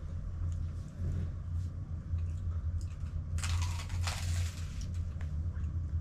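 A steady low hum, with a brief rustle or crinkle of something being handled about three and a half seconds in.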